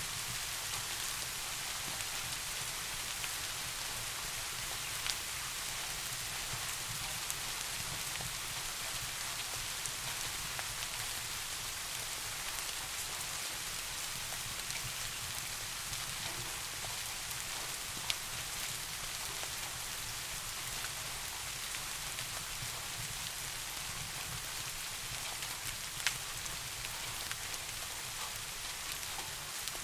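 Steady soft rain falling as an even hiss, with a few single sharp ticks at scattered moments.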